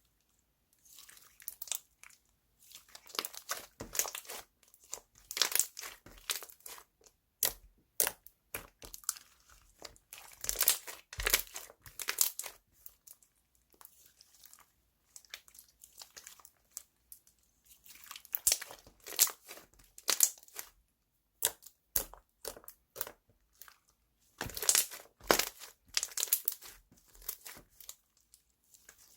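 Hands squeezing and pressing slime, making dense crackling, crinkling clicks that come in bursts of a second or two with short pauses between them.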